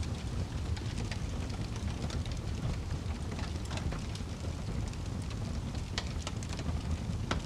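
Wood fire crackling in a fireplace: a steady low rumble of burning logs with irregular sharp pops and snaps, two louder pops about six seconds in and near the end.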